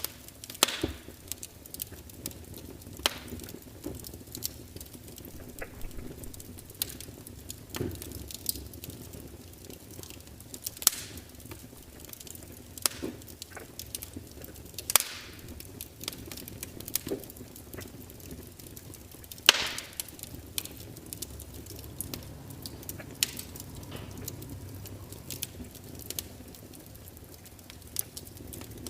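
Wood fire crackling: irregular sharp snaps and pops from burning logs, spaced a second or two apart, over a low steady rustle of flames.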